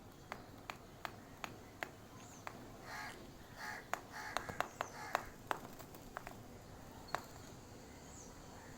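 A sparrow pecking, making sharp irregular taps about two or three a second, with a cluster of short harsh calls between about three and five seconds in and a few faint high chirps.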